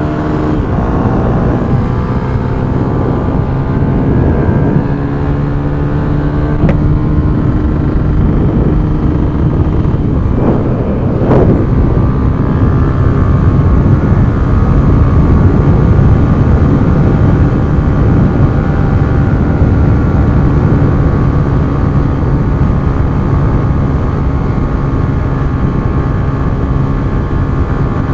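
Motorcycle engine running steadily under way, with heavy wind and road rush on the rider's microphone.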